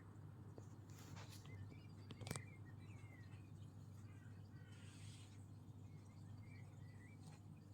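Faint, short bird chirps over a low steady hum, with one sharp click a little over two seconds in.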